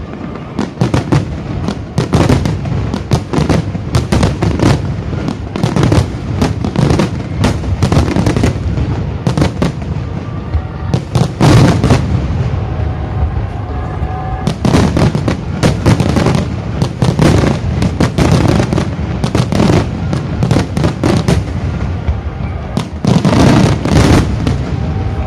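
Wide starmine fireworks barrage: aerial shells bursting one after another in quick succession, a dense run of sharp booms and crackles that keeps going with only brief lulls.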